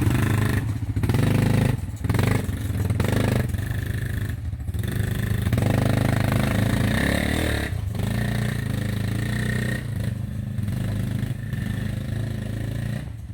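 ATV (four-wheeler) engine running, with several short dips in level.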